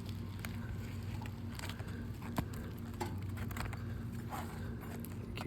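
Scattered clicks and scrapes of a small pry tool working under asphalt shingles to get at the roofing nails, over a steady low hum.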